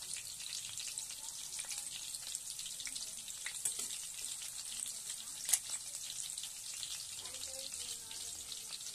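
Chopped garlic sizzling and crackling steadily in hot oil in a wok, with a spatula stirring through it. One sharper pop or click comes a little past halfway.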